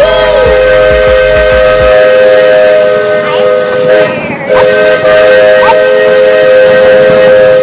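Steam train whistle blowing a long, steady chord of several tones over hissing steam, with a brief break about four seconds in before it sounds again.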